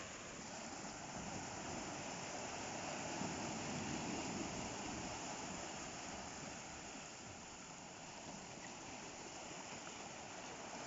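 Sea surf washing on the shore: a steady rush of breaking waves that swells a little a few seconds in and eases off again.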